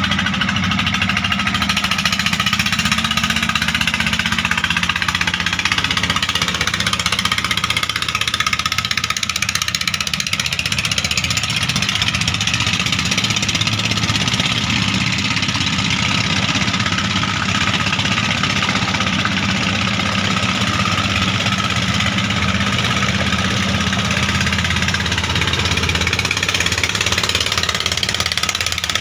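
Klotok river boat's diesel engine running steadily at an even, unchanging speed.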